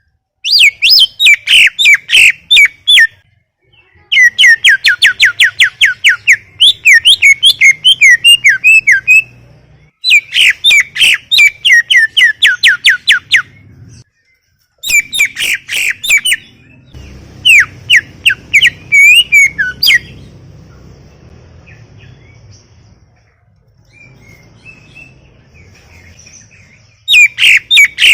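Greater green leafbird (cucak ijo) singing in loud phrases of rapid, high chirping and warbling notes, each phrase lasting a few seconds with brief gaps between. It falls quieter for several seconds near the end, with only faint chirps, then resumes just before the end.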